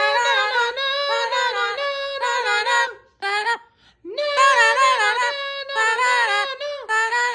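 Pet bird singing a wordless 'na na na' tune: several phrases of clear, high sung notes, with short breaks about three and four seconds in.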